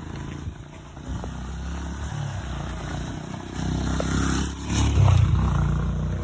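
A motor vehicle's engine running nearby, getting louder and peaking about five seconds in.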